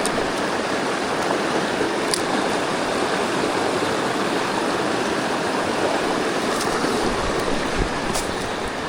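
Mountain stream rushing steadily, with a couple of faint ticks.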